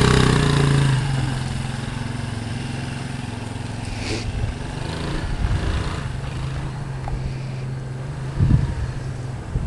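Truck engine idling steadily. It is louder for about the first second, then settles to an even low hum.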